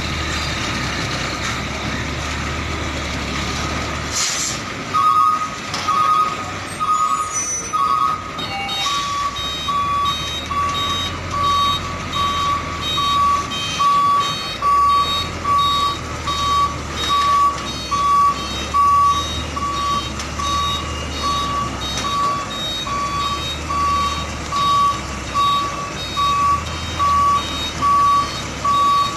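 Container truck's reversing alarm beeping over its running diesel engine: a few quicker beeps about five seconds in, then a steady beep about once a second. A short hiss comes just before the beeping starts.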